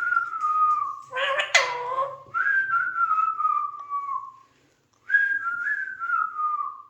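Alexandrine parrot whistling: three long whistled notes, each sliding slowly down in pitch, with a short harsh call between the first two.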